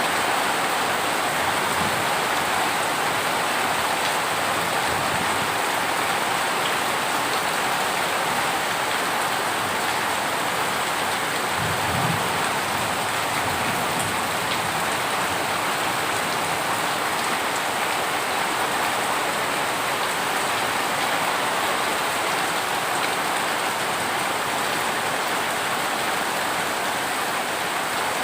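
Heavy rain falling steadily, a dense even hiss of drops on surfaces, with a brief low thud about halfway through.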